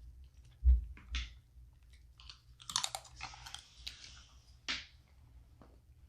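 Close-up eating of snow crab legs: scattered sharp clicks and crunches of shell being cracked and broken, with chewing. A brief crackling stretch about three seconds in and a single sharp snap near the end.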